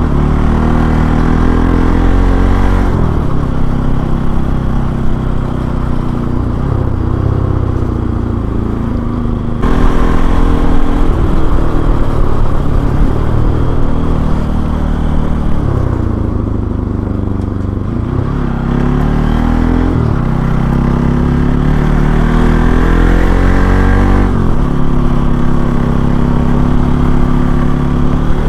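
Bajaj Pulsar NS200's single-cylinder engine running under way, its revs rising and falling with throttle and gear changes; it gets louder about ten seconds in, and the revs drop and climb again a little past the middle.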